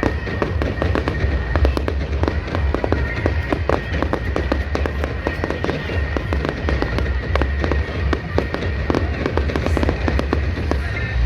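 Fireworks crackling: a dense, rapid stream of small cracks and pops that stops just before the end, with music playing underneath.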